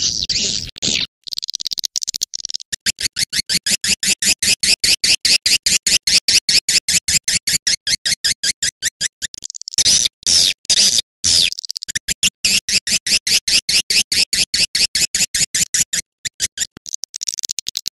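Swiftlet call-sound recording, the kind played to lure swiftlets to a nesting house. It is a fast, unbroken run of sharp, high chirps, about six or seven a second, with a few short breaks.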